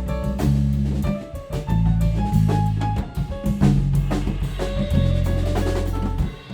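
Live band playing with a drum kit and bass to the fore: held bass notes shifting every half second or so under steady drum hits, with higher instruments playing lightly above.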